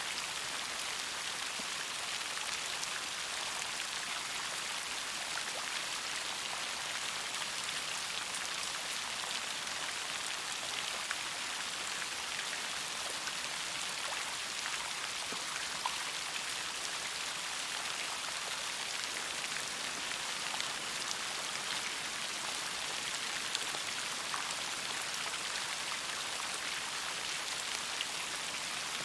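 Steady rain, with scattered individual drops ticking on a surface.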